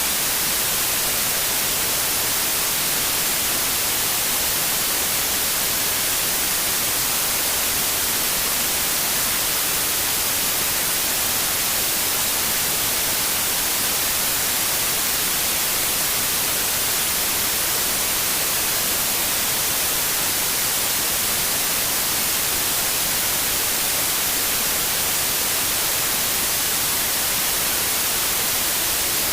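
White noise: a steady, even hiss that is brightest in the highs and never changes in level.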